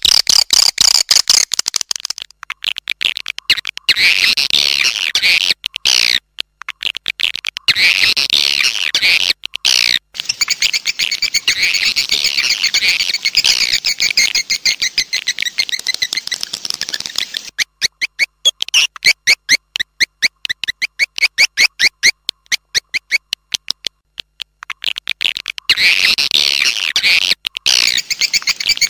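Recorded swiftlet calls, a lure track for a swiftlet house: dense, rapid high twittering chirps broken by brief abrupt gaps. About two-thirds of the way through it thins to an even train of separate chirps, about six a second, before the dense twittering returns.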